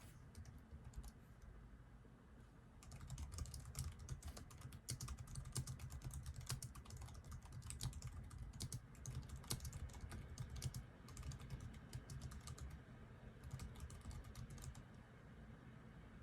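Typing on a computer keyboard in quick bursts of key clicks: a few keystrokes at first, a long run of typing from about three seconds in, then two shorter runs after brief pauses, all faint over a low steady hum.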